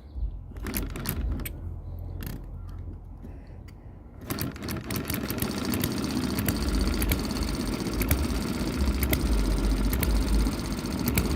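Model hit-and-miss engine running slowly at scale speed, its governor springs rewound at lower tension and its fuel of slightly lower octane. Sharp clicks come roughly once a second over a steady low running sound, which gets louder about four seconds in.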